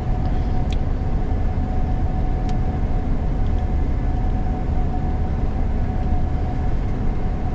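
Gleaner combine running under harvest load, heard from inside the cab: a steady low drone with a constant whine over it.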